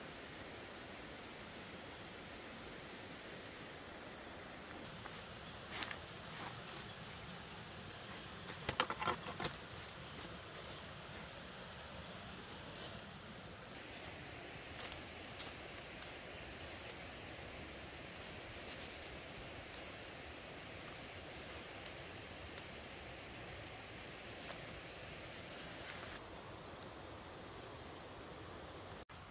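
Insects calling outdoors, a thin, steady, high-pitched trill that stops and starts again in long stretches over a low hiss. A quick cluster of clicks and rustles comes about nine seconds in.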